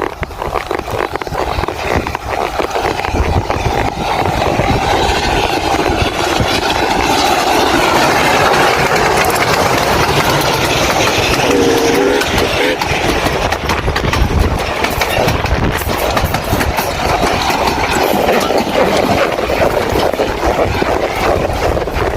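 Steam train passing close by, a steady, loud rumble of the locomotive and carriages on the rails that builds over the first few seconds. A brief pitched note sounds near the middle.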